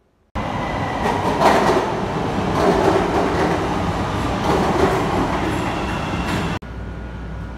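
Train running on its tracks, a loud steady rumble and clatter. It cuts off abruptly near the end, giving way to a quieter low rumble.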